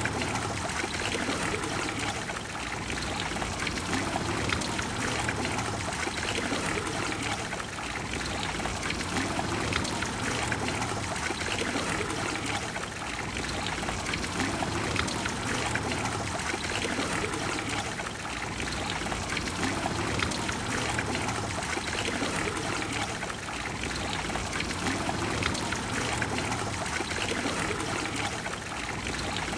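Trevi Fountain's water pouring and splashing into its basin: a steady, even rush of falling water.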